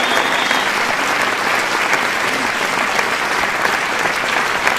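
Large audience applauding, a dense, steady wash of many hands clapping.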